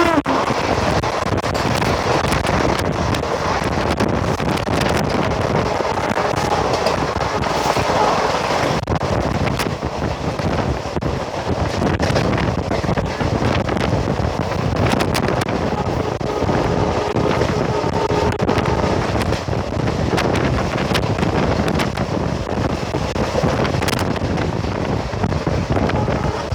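ALCO WDM-3A diesel locomotive running at full throttle: its 16-cylinder ALCO 251 engine chugging under load, mixed with the steady noise of the moving train. Heavy wind buffets the microphone throughout.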